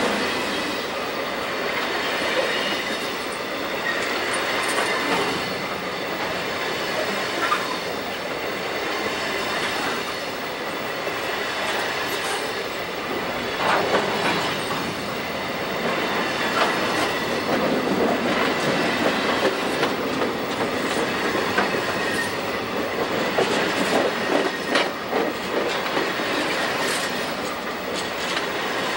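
Empty coal hopper cars of a freight train rolling past close by: a steady rumble and clatter of steel wheels over the rail joints, with scattered sharp clanks and a thin steady wheel squeal.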